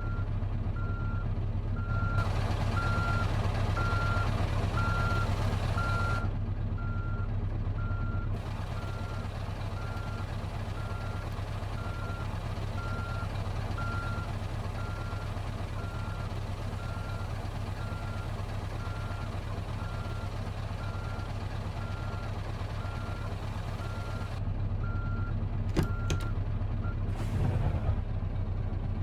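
Truck engine running steadily under a single-pitched electronic warning beep that repeats at an even pace, a little under one beep per second, and stops about 27 seconds in. A rushing hiss comes in about 2 seconds in and fades out about 6 seconds in.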